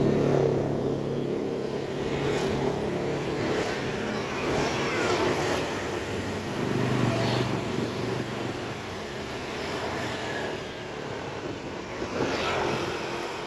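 Street traffic: a motor vehicle's engine hum fades away over the first couple of seconds, and another vehicle passes about seven seconds in, over a steady outdoor background.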